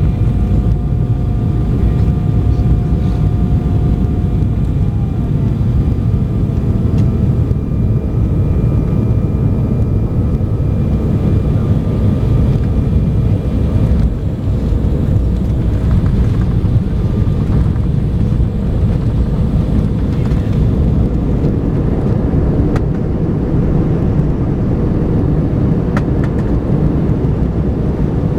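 Inside a jet airliner's cabin during landing: a steady, loud, low rumble of engines and airflow. Faint steady whining tones sit above it and fade out about halfway through.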